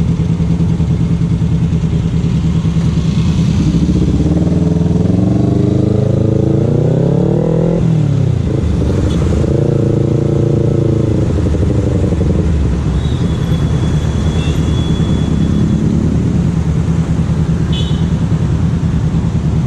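Kawasaki Z250's parallel-twin engine running through a Leovince Cobra aftermarket exhaust while being warmed up. It idles, is revved up slowly to a peak and drops sharply back about eight seconds in, gets a second, shorter rev a couple of seconds later, then settles back to a steady idle.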